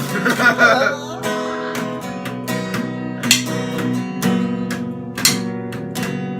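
Acoustic guitar strummed, playing the instrumental lead-in to a song, with regular accented strokes. A brief wavering, pitch-bending sound rises over it in the first second.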